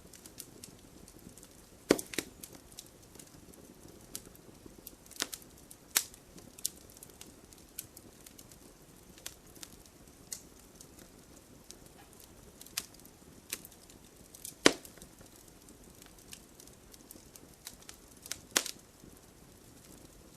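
Wood fire in a fireplace crackling: irregular sharp pops and snaps from the burning logs, the loudest about fifteen seconds in, over a faint low rush of the flames.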